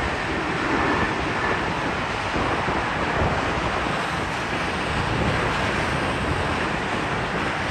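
Steady rushing of wind on the microphone over the continuous roar of a departing jet airliner's engines, with a faint high whine that fades out about a second and a half in.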